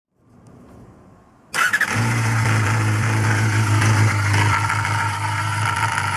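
Honda Jade (MC23) 250 cc inline-four engine (MC14E) being started: it cranks over suddenly about a second and a half in, catches almost at once and settles into a steady idle.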